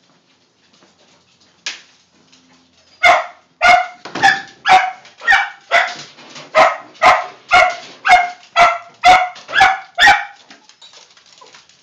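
Dog barking in a steady run of about fifteen sharp barks, roughly two a second, starting about three seconds in.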